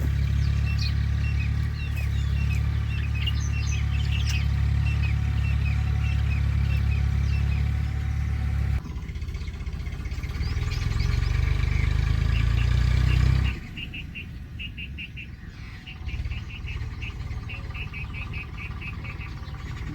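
Small birds chirping and twittering over a loud, steady low rumble. The rumble changes at about 9 seconds and cuts off suddenly at about 13 seconds. After that a bird gives rapid series of short, evenly repeated calls.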